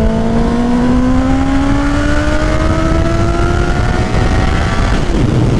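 Honda CBR650R's inline-four engine, fitted with an aftermarket full exhaust, pulling hard under acceleration. Its note rises steadily for about four seconds, then drops to a lower steady note.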